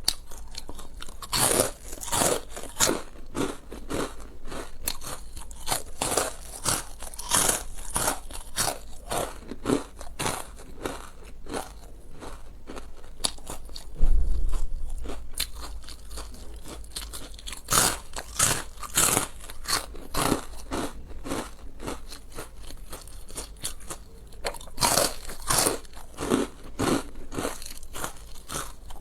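Close-miked crunching and chewing of crisp food, with sharp bites repeating throughout. A dull thump about halfway through is the loudest sound.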